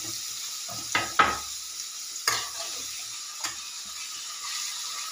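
Paneer cubes frying in hot oil in an aluminium kadai: a steady sizzle. A few sharp knocks against the pan are heard as the cubes are stirred.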